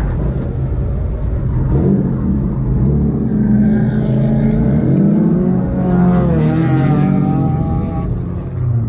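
Car engine revving hard, its pitch rising and falling again and again as in track driving, with a steady haze of noise behind it.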